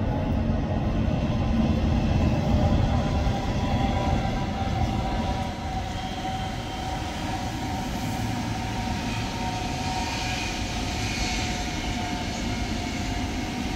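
Deutsche Bahn ICE high-speed electric train moving slowly along the station tracks: a steady rolling rumble with a faint whining tone, a little louder over the first few seconds.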